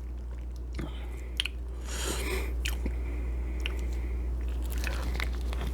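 Close-up mouth sounds of a person chewing a Mexican shrimp cocktail, with scattered soft wet clicks and a short wet smacking noise about two seconds in, over a steady low hum.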